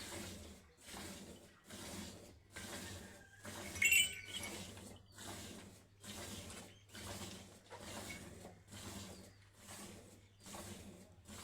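Cow milking machine running: its pulsator gives a rhythmic hiss and suck a little over once a second over a steady low hum. A brief sharp clink sounds about four seconds in.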